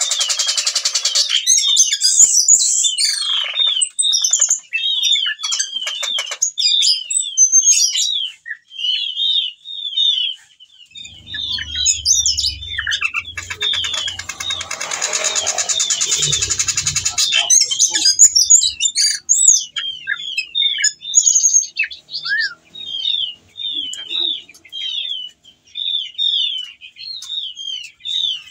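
Ciung batu (whistling thrush) singing in full voice, a long run of short, quickly repeated chirping notes. This is the song of a male in breeding condition calling to a female. Twice it breaks into a denser, harsh hissing stretch, the longer one about halfway through with a low rumble under it.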